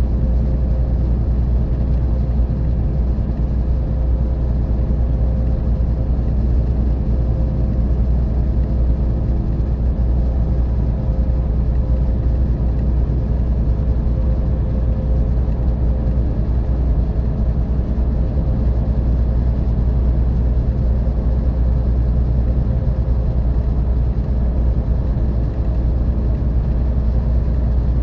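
Scania OmniExpress 360 K450EB coach running at a steady cruise: the deep, even rumble of its 13-litre six-cylinder diesel with tyre and road noise, with no change in speed or gear.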